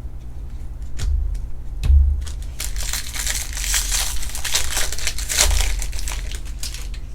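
Foil trading-card pack wrappers crinkling and crumpling as packs are handled and torn open, with a few clicks and a knock about two seconds in.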